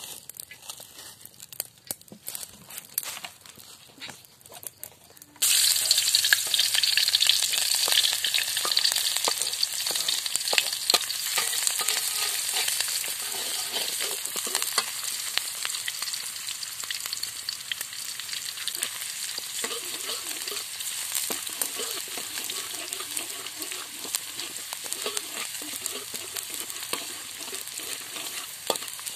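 Chopped vegetables frying in hot cooking oil in an aluminium wok: after some faint clicking, a loud sizzle starts suddenly about five seconds in and keeps going, easing slowly, while a spatula stirs and scrapes them around the pan.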